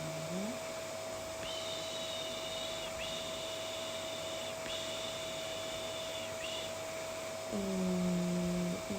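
Vacuum cleaner running steadily with a constant hum. A voice drones a soothing 'eee' over it, briefly at the start and again from about three-quarters of the way in. In between, a thin high whistle-like tone sounds in three stretches.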